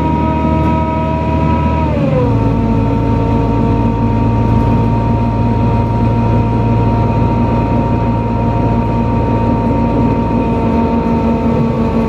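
NefAZ-5299 city bus heard from inside while under way: engine and drivetrain running with a steady whine. About two seconds in, the whine and engine note drop in pitch together, then hold steady.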